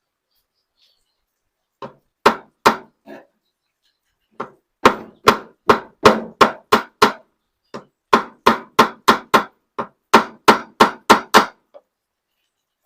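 Hammer blows driving a new ball bearing into its press-fit seat in a washing machine's drive housing. The sharp strikes come in three runs of quick blows, about three a second, with short pauses between.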